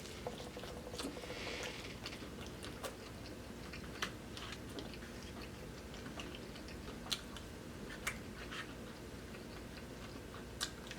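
A person chewing fried chicken, faint, with scattered short mouth clicks.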